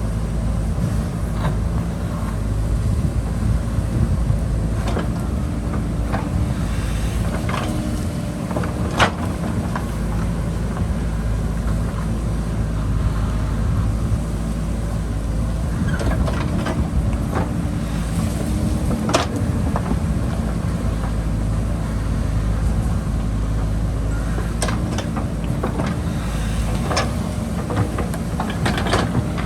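JCB backhoe loader's diesel engine running steadily under load while digging, with scattered sharp knocks from the work, the loudest about nine seconds in.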